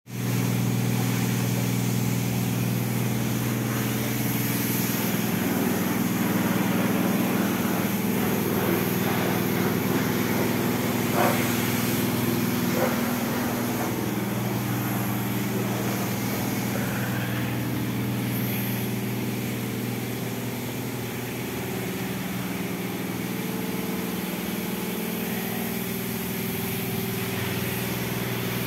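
Citroën Saxo 1.1i's four-cylinder petrol engine idling steadily, with two short clicks near the middle.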